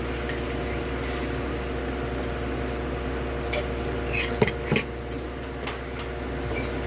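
A few sharp clinks of tableware during a meal, the loudest pair about four and a half seconds in, over a steady low hum.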